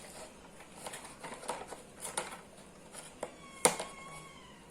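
Small clicks and rustles of a miniature toy car's cardboard box being handled and opened, with one sharper click about three and a half seconds in. A faint whistling tone sounds for about a second around the same time.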